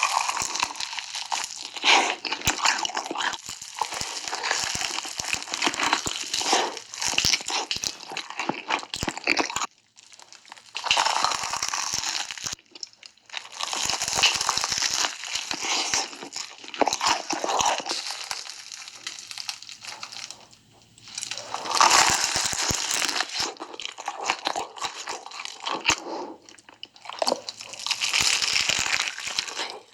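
Close-miked crunching of Hot Cheetos, mixed with crinkling of the chip bag, in long bursts with a few short pauses.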